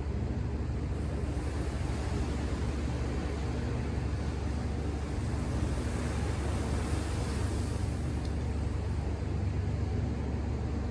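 Ocean surf under a steady low rumble; about a second in, the hiss of a wave washing in swells and fades away again over several seconds.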